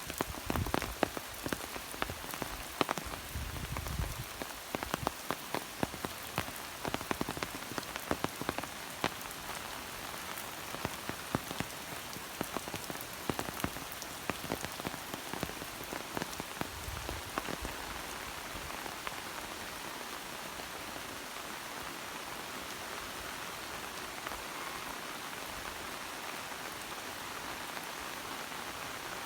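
Steady rain falling, an even hiss dotted with many sharp close drop hits that thin out after about eighteen seconds, leaving a smoother hiss. A couple of low thumps come through early on and again near the middle.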